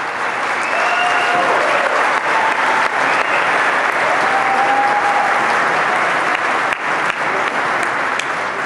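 Audience applauding loudly and steadily, with a few cheers, as a new concept pickup truck is unveiled.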